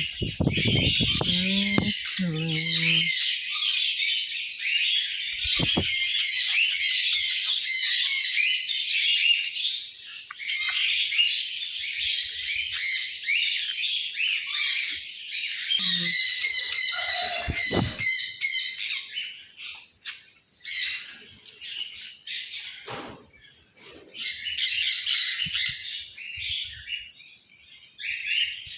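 Pet birds chattering in a dense, continuous stream of high chirps and squawks, easing off briefly about ten seconds in and again around twenty seconds.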